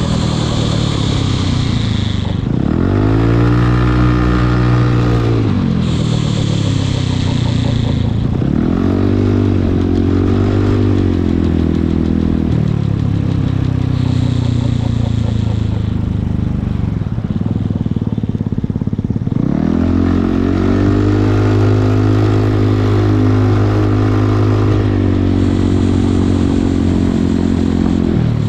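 Yamaha Cygnus X scooter's single-cylinder four-stroke engine running while ridden, its pitch rising as it speeds up and falling as it slows, several times over.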